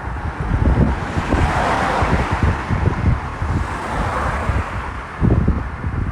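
Wind buffeting the microphone in irregular low gusts, with a car passing on the road: its tyre noise swells about two seconds in and fades away by around five seconds.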